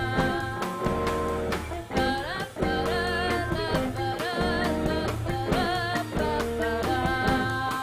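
A band playing: electric guitar over bass and drum kit in a steady, repeating groove, with a bending guitar line.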